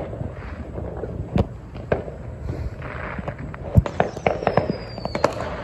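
Fireworks going off: a scattering of sharp bangs and crackles, the loudest a little under four seconds in, with a thin high whistle falling in pitch from about four seconds in.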